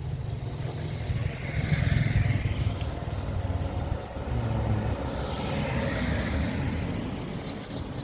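Motor vehicles passing along a street: engine hum, with one vehicle going by about two seconds in and another about six seconds in.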